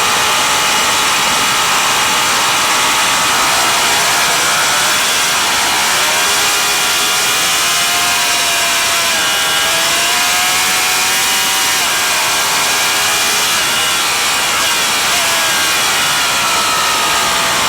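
Vintage racing motorcycle engine running hard under a steady rushing noise, its pitch dipping and climbing again several times through the middle as the revs change.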